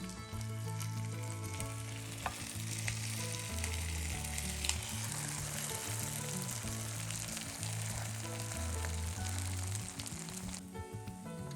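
Food sizzling as it fries in a pan, with a few sharp clicks, over background music; the sizzle cuts off suddenly near the end.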